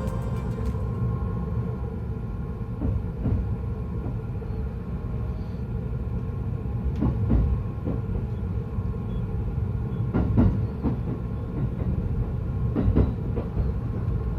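Yokosuka Line electric commuter train running, a steady low rumble from inside the car, with the wheels clicking over rail joints a few times, some in quick pairs.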